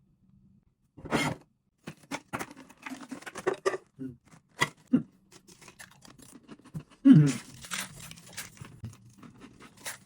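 Packaging being crinkled and torn, with scrapes and small clicks. About seven seconds in there is a short moan that falls in pitch.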